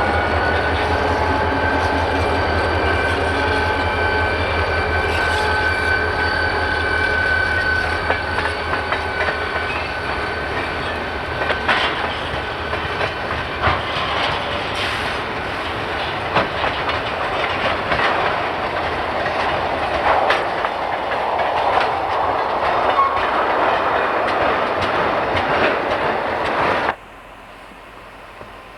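Diesel locomotive passing close, its engine throbbing with a steady whine, followed by railcars rolling by with irregular wheel clicks over the rail joints. The sound cuts off abruptly near the end.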